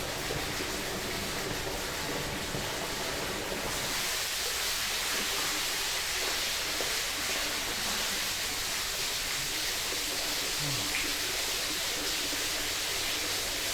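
A creek's water flowing steadily over its bed, an even rushing sound that grows a little brighter about four seconds in.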